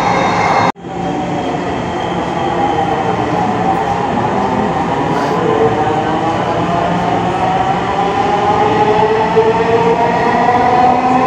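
Dhaka Metro Rail MRT Line 6 train heard from inside the carriage, its electric traction motors whining in several tones that slowly rise in pitch as the train gathers speed, over a steady running rumble. The sound drops out abruptly for an instant under a second in.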